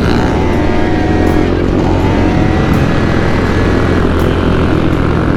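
Small motorbike engine running under way while riding, with road and wind noise on top. Its pitch rises and falls over the first few seconds, then it settles to a steady drone.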